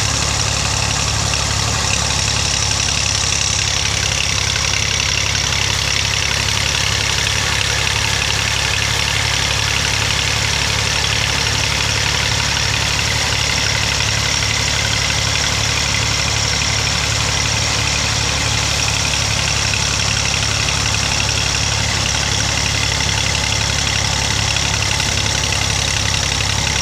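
Tractor engine idling steadily, a continuous low, even chugging that does not change in speed.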